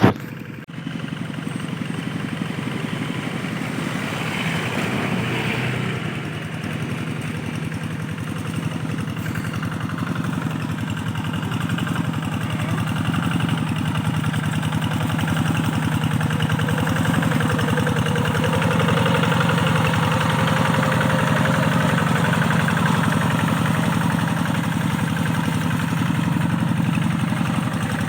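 Rice-field tractor engine running steadily, growing louder about halfway through.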